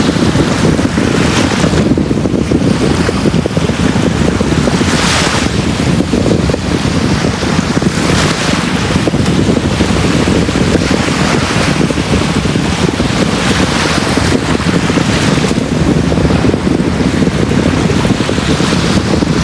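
Sea waves washing onto a beach: a steady low wash with a hissing surge as a wave breaks every few seconds.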